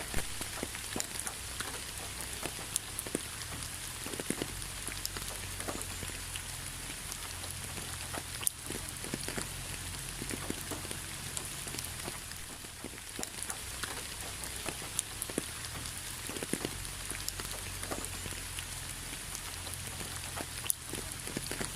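Steady rain: an even hiss with individual raindrops ticking at irregular moments, over a low steady rumble.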